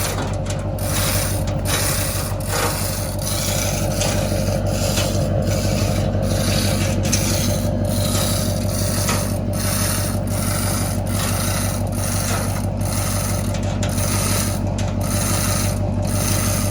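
Rhythmic mechanical rubbing and ratcheting, about two strokes a second, over a steady hum, from gear lifting an engine onto a truck.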